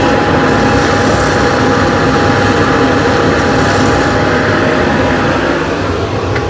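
Workshop dust extractor running steadily while a turned wooden piece is sanded; the noise eases a little near the end.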